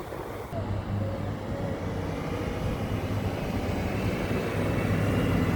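Snowplow truck's engine running with a steady low hum, growing gradually louder.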